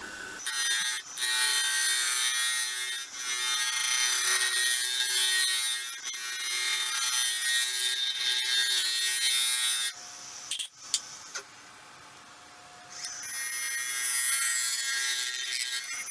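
A turning tool cutting into a spinning blank of wood and resin on a wood lathe: a steady hissing scrape over the lathe motor's hum. It stops for a few seconds about two-thirds through, with a single click, then resumes.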